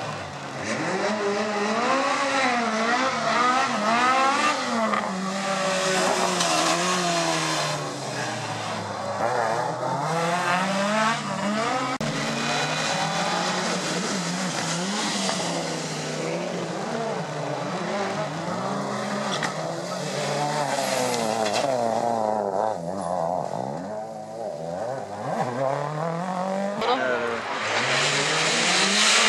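Rally car engines revving hard on a special stage, the pitch climbing and dropping again and again through gear changes and corners, with some tyre squeal. A louder, brighter rush comes near the end.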